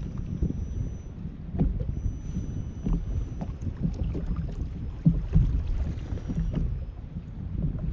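Kayak on the water: a low rumble of water and wind against the hull, with irregular light knocks.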